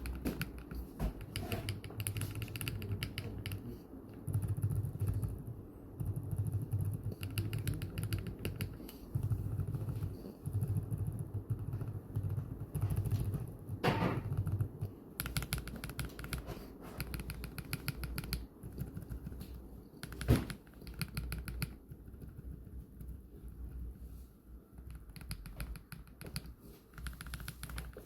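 Mechanical keyboard being typed on in quick runs of keystrokes with short pauses, with a couple of single louder key strikes.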